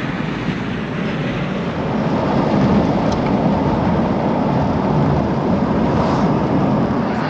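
Steady road and engine noise heard from inside a moving car's cabin, growing a little louder about two seconds in.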